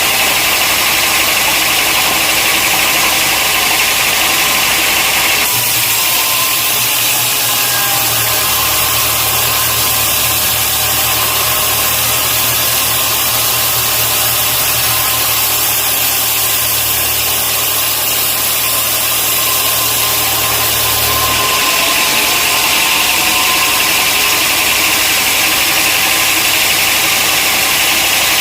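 Sawmill machinery running steadily. Its sound changes abruptly, with a heavier low hum and more hiss, from about five seconds in until about twenty-one seconds in, then returns to the earlier sound.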